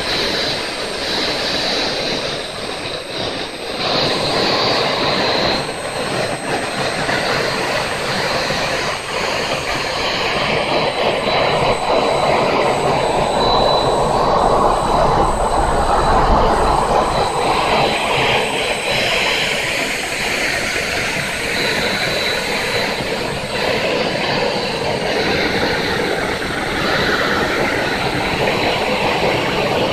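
RAM-1000 turbine engine running: a steady rushing noise with a thin, high whine held throughout, swelling a little in the middle.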